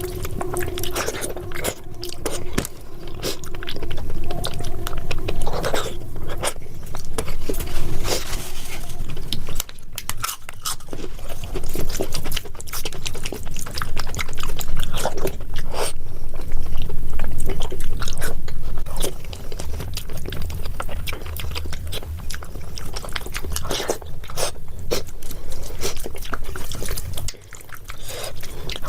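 Close-miked chewing and wet mouth sounds of a person eating khichdi, with many sharp smacks and clicks.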